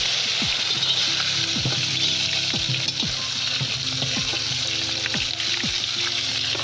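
Pork ribs and potatoes sizzling in hot oil in a cast-iron kazan, just after the fried potatoes are added back in: a steady, loud hiss with constant crackling and spitting.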